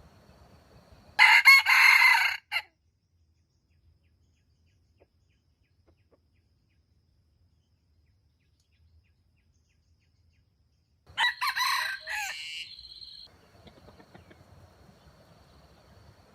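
Wild junglefowl rooster crowing twice, each crow about a second and a half long, with about ten seconds between them.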